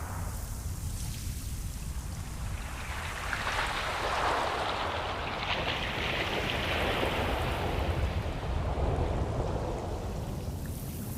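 Ocean waves: one wave washes in with a rising and then fading hiss, loudest about four to seven seconds in, over a steady low rumble of surf.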